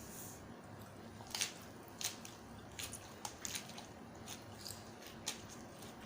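A person chewing a mouthful of spicy Thai seafood salad close to the microphone: wet, irregular mouth smacks and squishes.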